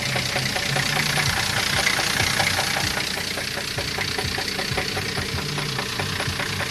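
Car engine idling with a rapid, even knocking, the kind of knock the driver fears means spun crankshaft bearings. The knock is not from the engine: friends are faking it as a prank, and it carries on even with the engine shut off.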